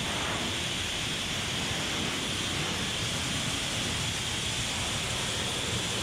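Pressure washer spraying, a steady hiss of water jetting against a surface with no breaks.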